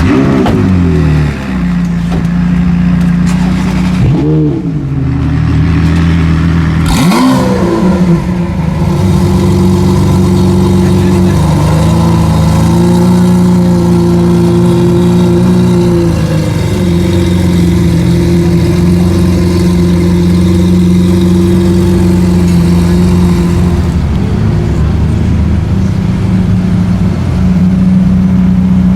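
A supercar engine: its revs fall away at the start, it is blipped twice a few seconds in, and it then settles to a steady idle.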